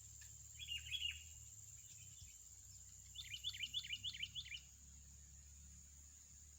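A small bird chirping: a short burst of chirps about half a second in, then a quick run of about eight chirps around three seconds in. A steady high-pitched hiss runs underneath.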